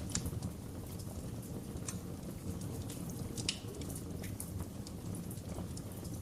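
Wood fire crackling in a fireplace: a steady low rumble of burning with irregular sharp pops and snaps, a few a second, the loudest about three and a half seconds in.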